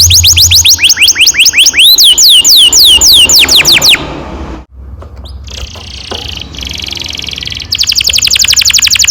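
Canary singing: loud repeated sweeping notes, several a second, for about four seconds, then after a brief break a quieter buzzy trill, and near the end a long, very fast rolling trill.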